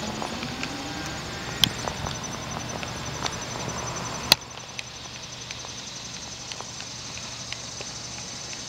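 Outdoor ambience: a steady pulsing high insect trill over a low steady hum, with scattered faint ticks and two sharp clicks, one about one and a half seconds in and one about four seconds in.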